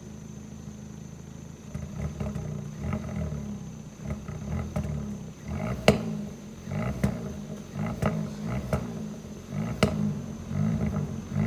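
2020 Kia Forte GT's turbocharged 1.6-litre four-cylinder through its stock exhaust: idling, then revved in a string of short blips from about two seconds in, with sharp exhaust pops and bangs, the loudest about six and ten seconds in.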